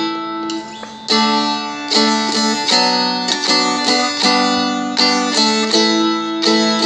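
Seagull Merlin (a small fretted strumstick-style dulcimer) strummed in a steady rhythm through a chord progression. A chord rings on its own at first, then regular strums begin about a second in, about two a second, with the chord changing a few times.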